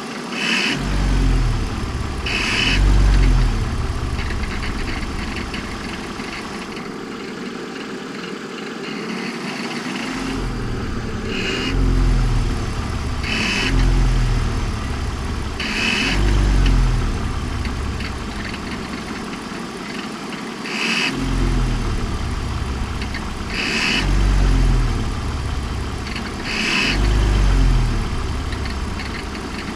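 BMW M54 2.2-litre straight-six idling with repeated light throttle blips every couple of seconds. Each blip brings a short high-pitched squeal/whistle. The owner suspects the original alternator, as the belts and pulleys have already been replaced.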